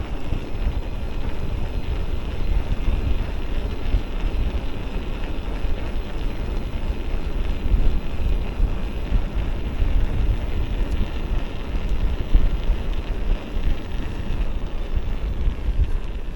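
Wind buffeting the microphone as a steady low rumble while an electric mountain bike is ridden along.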